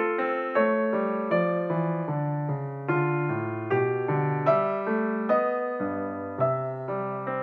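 Background piano music: a slow tune with a new note or chord struck about every three-quarters of a second.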